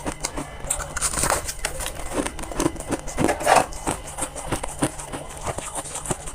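Close-up crunching and chewing of freezer frost ice in the mouth: a dense run of irregular crisp crunches, loudest about three and a half seconds in.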